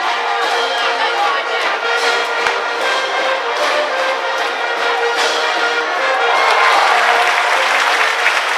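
School brass band playing a cheering tune in the stands, trumpets and trombones to the fore, growing a little louder and fuller near the end.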